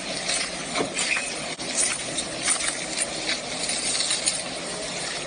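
Road traffic noise: a steady hiss of passing vehicles with faint brief crackles and no clear engine note.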